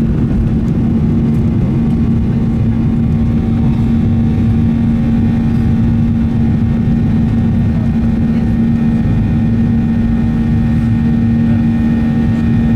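Boeing 737-800's CFM56 turbofan engines at high takeoff thrust, heard inside the cabin: a loud, steady rumble with a strong, even hum and fainter higher tones over it.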